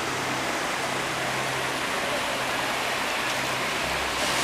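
Steady rush of water from a waterfall cascade.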